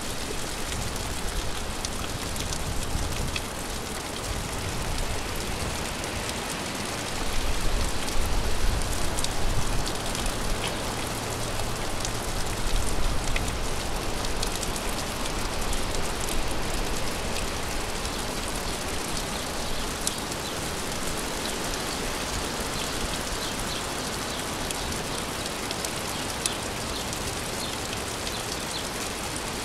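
Steady gentle rain falling, an even hiss with scattered single drops ticking on a surface. About a quarter of the way in, a low rumble swells for several seconds and then fades back under the rain.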